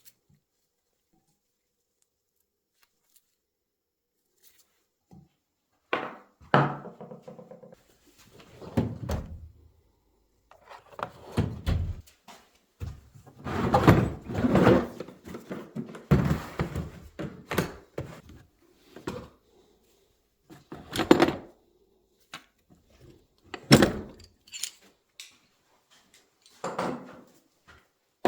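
Irregular metal knocks and clunks, some ringing briefly, as the dust seal, oil seal and bushing are worked off a motorcycle fork's upper tube. It starts after a few seconds of quiet.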